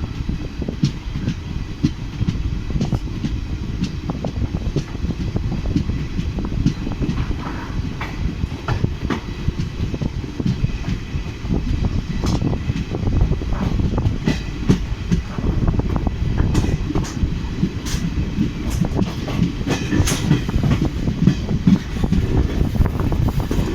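Express passenger train running on the rails: a steady low rumble with wheel clicks over rail joints, coming more often and louder in the second half.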